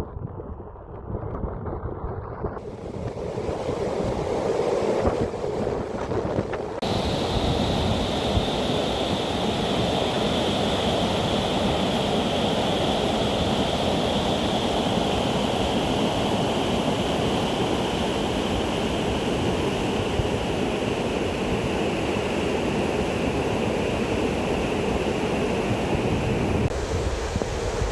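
Floodwater rushing in a steady, loud torrent, the rush growing fuller a few seconds in.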